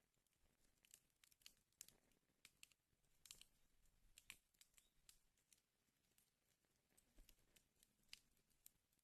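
Faint fire burning in a fireplace, with irregular sharp crackles and pops, a few louder snaps among them.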